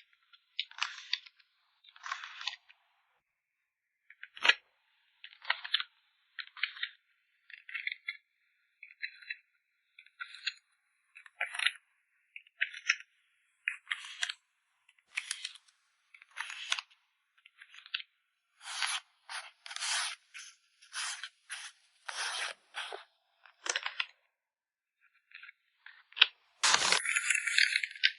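Short crinkles, taps and scrapes of plastic photocard sleeves and packaging being handled, one after another with brief silences between. There is a sharp click about four and a half seconds in, and a longer, louder rustle near the end.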